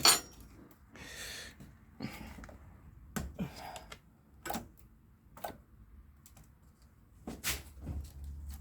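Hand tools and metal parts being handled during starter work: a sharp clack at the start, then scattered light clicks and knocks about every second.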